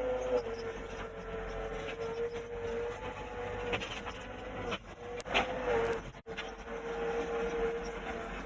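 Heavy machine's engine running steadily under a constant whine, the pitch stepping slightly lower about half a second in and again near six seconds. The sound briefly cuts out just past six seconds.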